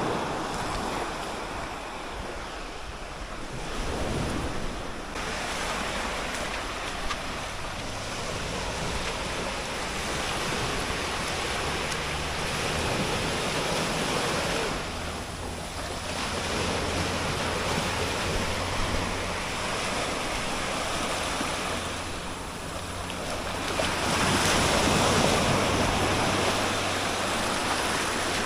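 Sea waves washing and surging in repeated swells every few seconds, with wind buffeting the microphone.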